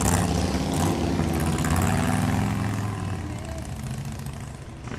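An engine running, loud at first and fading away over the last two seconds.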